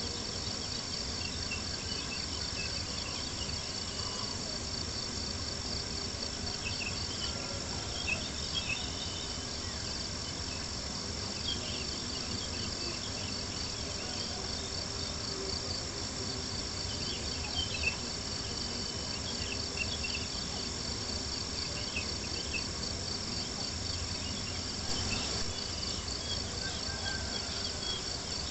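Crickets chirping steadily in an even, pulsing chorus, with a few soft pops from a crackling campfire, about eight seconds in and again near eighteen seconds.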